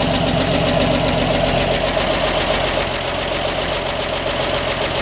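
1946 Chevrolet cab-over truck's 235 inline-six engine running steadily at idle, with a fast, even ticking over the exhaust note.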